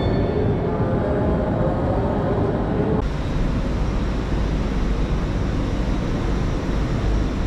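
Steady whirring running noise of a Lumo Class 803 electric train standing at the platform. About three seconds in the sound changes abruptly to a heavier, deeper rumble.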